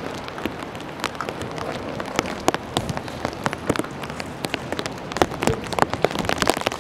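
Rain falling: a steady hiss with many sharp, irregular drop hits close by.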